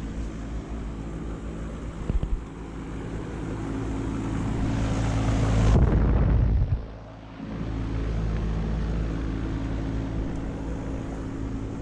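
Outdoor air-conditioner condensing units running with a steady electric hum. A rushing, wind-like noise swells over a few seconds and cuts off sharply about seven seconds in.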